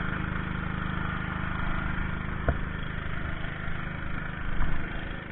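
An engine idling steadily, with a sharp click about halfway through and a brief louder bump near the end.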